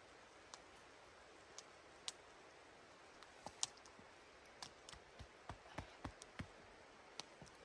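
Faint, irregular sharp clicks and snaps, sparse at first and coming more often after about four seconds, over a low steady hiss.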